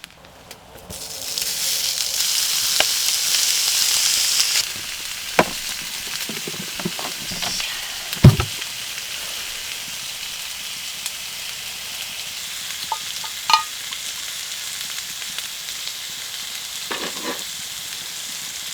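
Pork belly sizzling in a hot pan: the sizzle surges about a second in as the meat goes on, then settles to a steady fry. A few sharp knocks of utensils on the pan, the loudest about eight seconds in.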